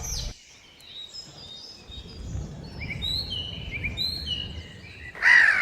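Short, high bird chirps, falling and rising, repeated over a low rumble of outdoor noise. A much louder call with a wavering pitch comes in near the end.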